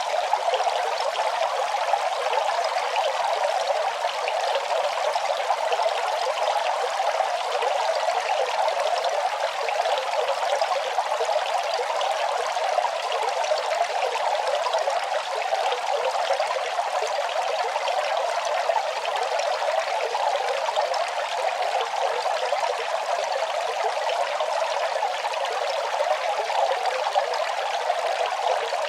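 Running water: a steady, unbroken splashing rush with no change in level.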